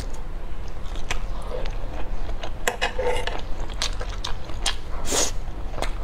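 Mouth chewing and biting of saucy enoki mushrooms: short wet smacks and sharp clicks scattered throughout, over a steady low hum.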